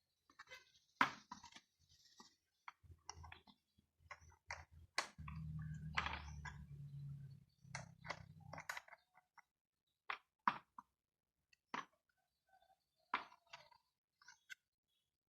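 Scattered sharp clicks and knocks of hand tools at work, with a low buzzing hum for about three seconds starting about five seconds in.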